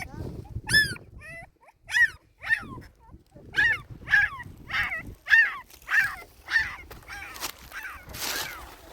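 An animal crying out in a quick series of about a dozen short, high cries, roughly two a second, each falling in pitch.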